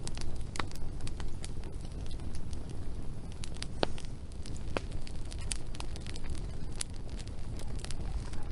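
Wood fire burning with a steady low rumble and scattered sharp crackles and pops of burning logs.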